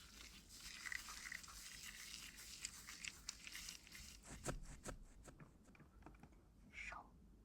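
Faint, close-miked ASMR trigger sounds: scattered soft clicks over a low hiss, with a few sharper clicks about four and a half and five seconds in.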